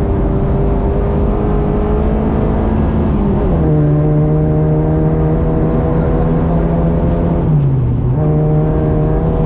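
Ford Fiesta V1600 rally car's engine running hard, heard from inside the cabin over steady road and tyre noise. The engine holds a high, even note, drops in pitch about three and a half seconds in, then dips briefly near the end before the note picks up again.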